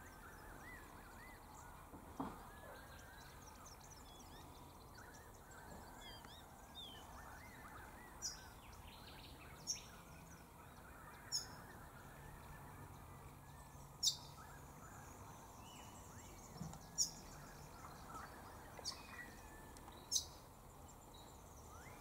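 Faint outdoor ambience with wild birds calling: short, sharp high chirps every second or two over soft background chatter.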